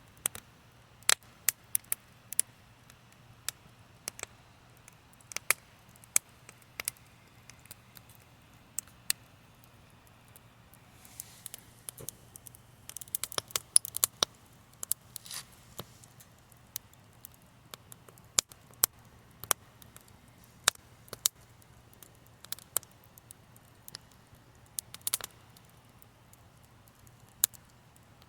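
Wood fire crackling: irregular sharp pops and snaps from the burning wood, a little denser for a few seconds in the middle, over a low steady hum.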